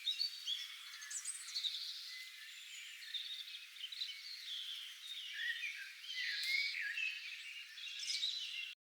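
Chorus of many birds chirping and whistling, with dense overlapping short calls that cut off suddenly near the end.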